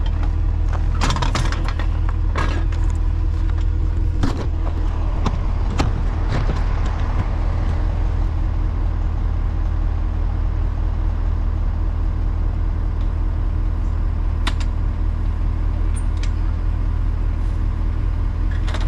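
A tow truck's engine running steadily at idle, with a cluster of sharp knocks and clanks in the first six seconds and one more about two-thirds of the way through.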